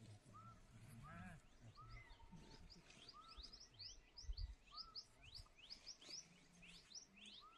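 Faint birdsong: one bird repeats short arched chirps every second or so, while from about three seconds in another gives a fast run of rising high notes. A soft low thump sounds about halfway through.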